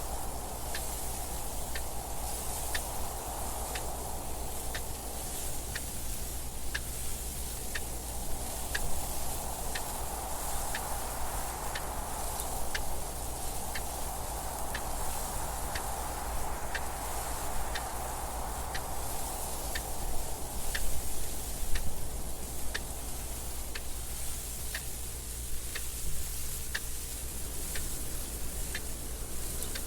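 A clock ticking steadily, about once a second, over wind noise that slowly swells and eases.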